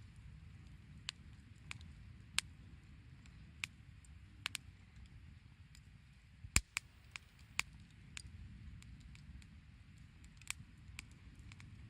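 Firewood burning in a small fire stand, crackling with irregular sharp pops, the loudest about six and a half seconds in, over a low steady rumble.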